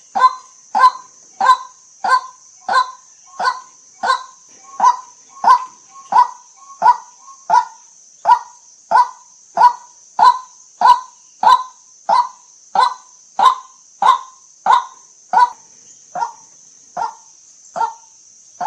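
White-breasted waterhen giving its monotonous call: a single harsh 'kwak' note repeated evenly, about one and a half times a second, the notes growing fainter near the end. A steady high-pitched hiss runs underneath.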